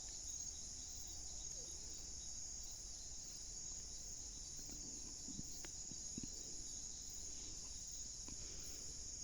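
Steady, high-pitched chorus of night insects such as crickets, with a few faint clicks about halfway through.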